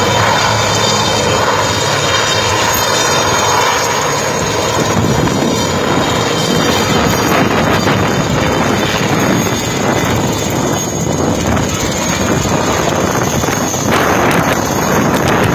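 Aircraft flying at an airshow: a loud, steady engine drone with a low hum for the first few seconds, after which a rougher, noisier rush takes over.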